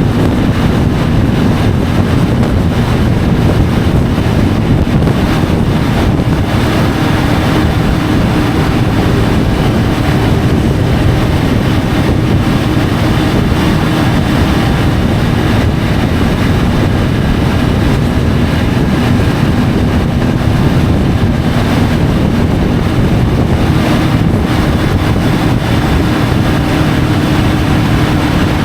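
Triumph Tiger 850 Sport motorcycle at a steady cruise, its inline-three engine running at an even pitch under heavy wind rushing over a bike-mounted camera's microphone. No gear changes or revving: one steady sound.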